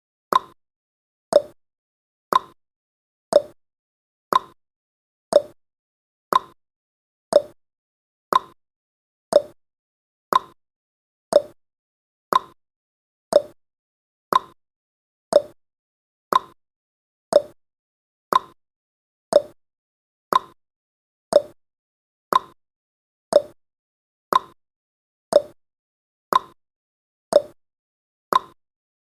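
Countdown timer's ticking sound effect: one short, sharp tick each second, alternating between a higher and a lower pitch like a clock's tick-tock.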